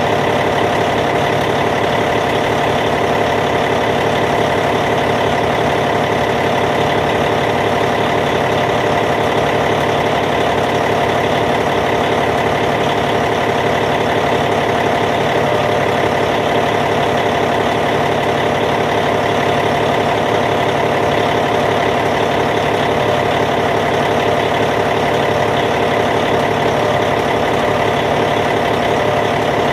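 Caterpillar C15 diesel engine in a Cat D8T bulldozer idling steadily and evenly.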